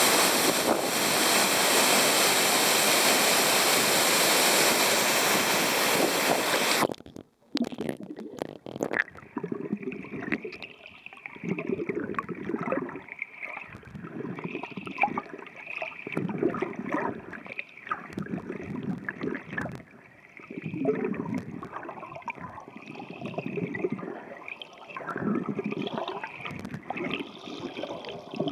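Waterfall's rushing water as a loud, even hiss. About a quarter of the way in it cuts out briefly and turns muffled and surging as the waterproof compact camera goes under the surface, picking up the churning water and bubbles below the falls.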